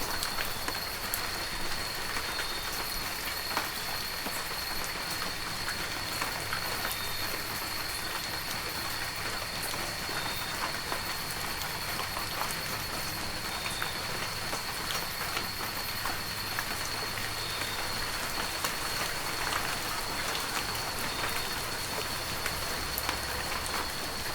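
Heavy rain falling steadily, with many separate drops pattering, and a thin high steady tone running underneath.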